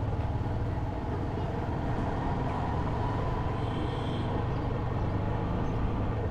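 Motorcycle engine running steadily while riding, with the road noise of travel.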